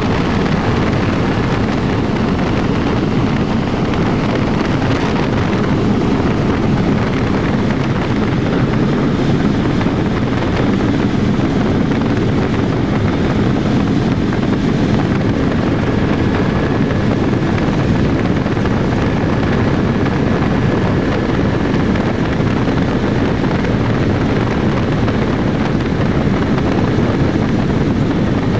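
Helicopter in flight: steady, loud engine and rotor noise with no change in pitch, and a faint steady whine in the second half.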